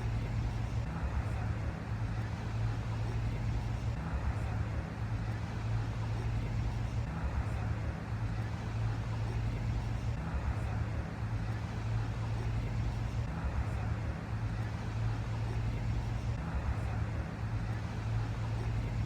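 Steady low mechanical hum, as of an engine or machinery running, over a constant background of traffic-like noise.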